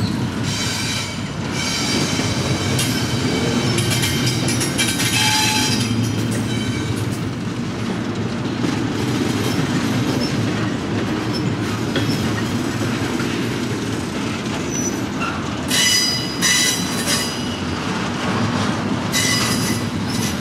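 CSX double-stack intermodal train's container-laden well cars rolling steadily past with a continuous low rumble. Bursts of high wheel squeal come several times, the strongest about three-quarters of the way through and again near the end.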